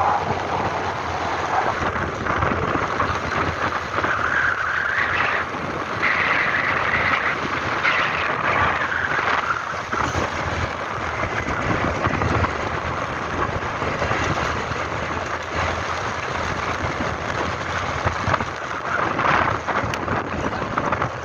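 A vehicle driving along, a steady rush of road and engine noise with wind buffeting the microphone.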